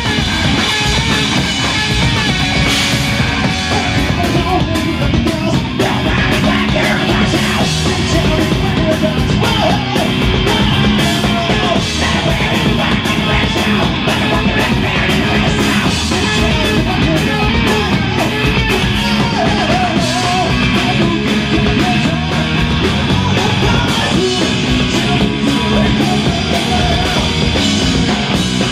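Loud live rock band playing, with distorted electric guitars, a drum kit and shouted vocals in a punk or heavy rock style.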